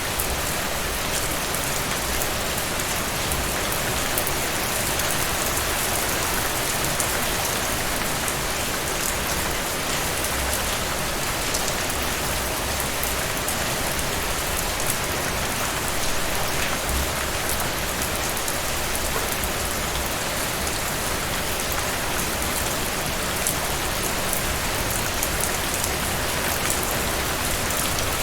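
Heavy rain falling steadily, a dense even hiss with drops pattering on surfaces.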